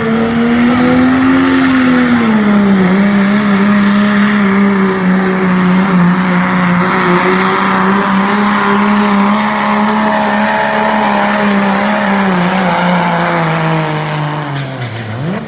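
Diesel pickup engine of a 2.6-class pulling truck running flat out under heavy sled load, its pitch holding steady for most of the pull. Near the end the revs sag as the engine bogs down, then fall away sharply.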